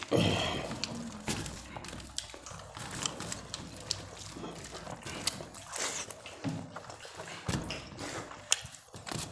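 People eating rice and egg curry: a scatter of short wet clicks and smacks from chewing and mixing food, with a louder rough burst right at the start.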